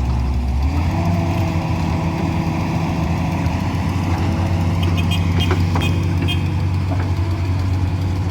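A motor vehicle engine running steadily, its pitch stepping up about a second in and then holding.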